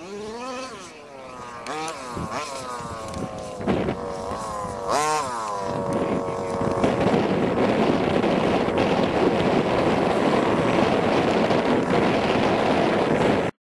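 Nitro RC car engines, small two-stroke glow engines, revving and passing with a whine that rises and falls in pitch. From about six seconds in, a louder, steady rough noise takes over, then cuts off abruptly near the end.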